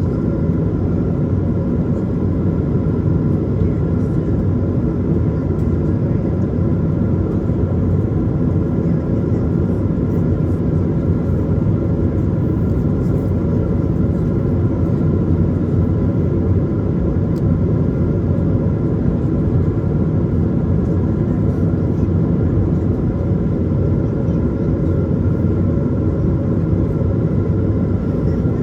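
Airbus A220 in flight: its Pratt & Whitney PW1500G geared turbofans and the airflow make a steady low roar, with a few steady whining tones above it.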